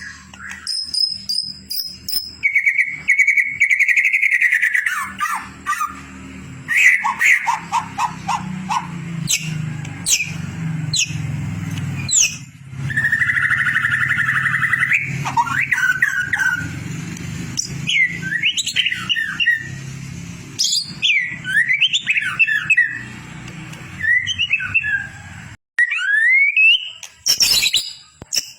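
White-rumped shama (murai batu) singing a varied song of loud whistles, quick trills and sweeping glides, recorded as a song-mastering track for songbirds. A low steady hum sits beneath the song for most of it and stops abruptly near the end.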